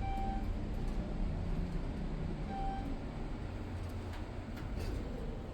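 Elevator car travelling down with a steady low rumble and hum. Two short electronic beeps sound, one at the start and one about two and a half seconds in.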